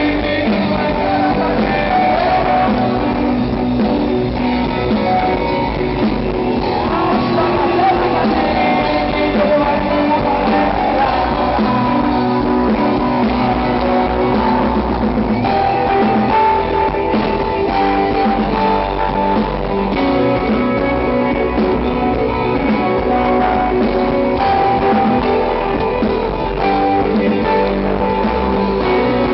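A rock band playing live, with guitar carrying the melody through an instrumental passage.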